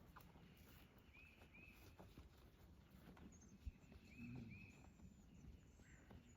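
Faint birdsong: one bird repeats a pair of short arched chirps every couple of seconds, and a thinner, higher call from another bird comes in the middle, over a quiet background.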